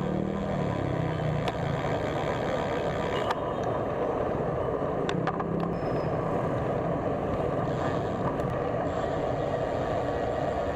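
Steady road-traffic noise with motor-vehicle engines running close by, with a few faint clicks.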